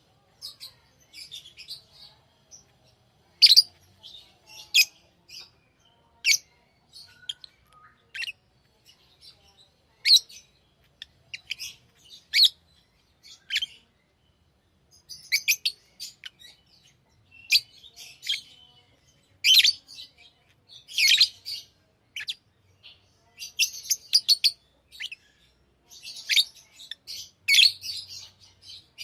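Pet lovebirds chirping: many short, high-pitched chirps in irregular clusters, with brief pauses between them.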